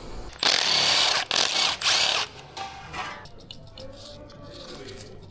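Handheld power tool spinning a fastener out during an engine teardown, run in three short bursts about half a second to a second long. A few light clicks of tool and metal follow.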